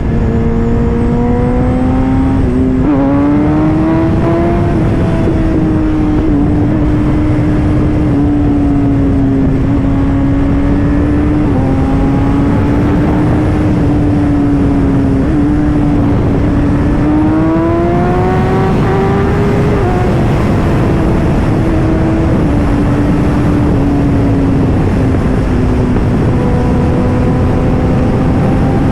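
Sportbike engine running steadily while riding, with rushing wind noise. The engine note rises briefly about three seconds in, then climbs again and drops back a little past halfway.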